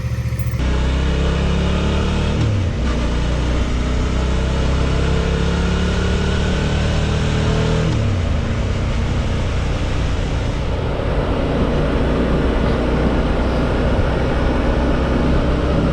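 Suzuki V-Strom 650's V-twin engine running on the move, with wind rushing over the microphone. The engine note climbs slowly and dips briefly twice, about a sixth of the way in and again halfway through.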